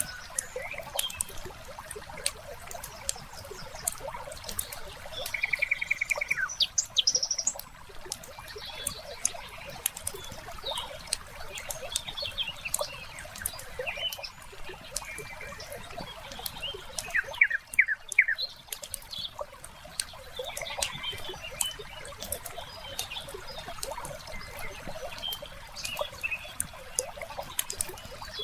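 Layered ambience of a wood fire crackling with many small pops, with birds calling over it: a fast trill about six seconds in and a few quick chirps about two-thirds of the way through.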